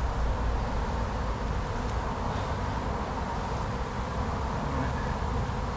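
Honey bees buzzing steadily around an opened hive, disturbed by the inspection, over a low rumble.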